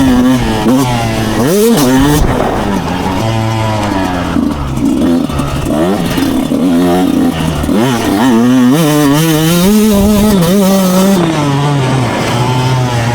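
Two-stroke motocross bike engine revving hard, its pitch climbing and dropping again and again as the throttle is worked.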